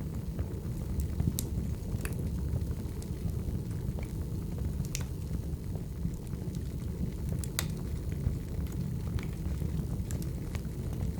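Wood fire crackling: a steady low rumble of burning logs with sharp pops every second or few.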